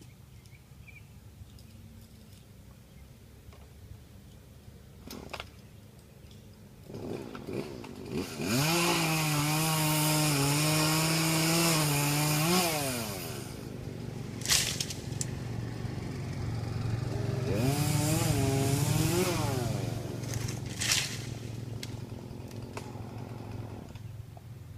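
Chainsaw idling, then run up to full throttle twice: once for about four seconds from roughly 8 seconds in, with a hiss that suggests it is cutting wood, and again more briefly around 18 seconds. There are a few sharp knocks in between.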